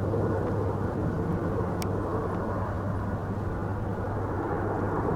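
Steady rumble of an approaching Boeing 767-300ER's twin jet engines, a constant low, even roar.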